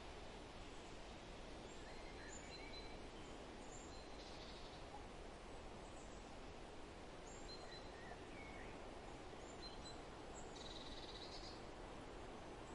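Faint outdoor ambience: a steady low hiss with scattered short, high bird chirps and, near the end, a brief buzzy bird trill.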